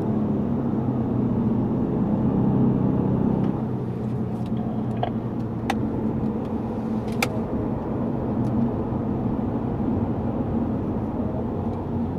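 Lexus GS450h hybrid with its 3.5-litre V6 running steadily at moderate speed on a race track, a low engine drone over road noise. A few faint clicks come in around the middle.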